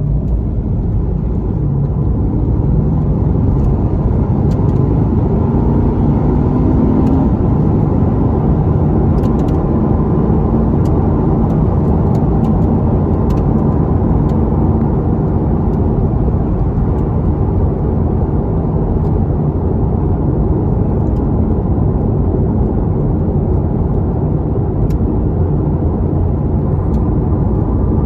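Corvette C8 Z51's 6.2-litre V8 running steadily, heard from inside the cabin as a deep, even rumble, with a brief rise in pitch a few seconds in.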